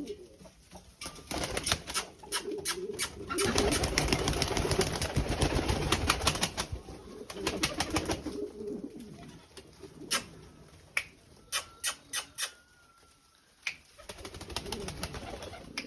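Birds cooing in low, pulsing phrases, with a stretch of dense rustling noise a few seconds in. Near the end comes a run of sharp clicks or taps, then a short quiet gap.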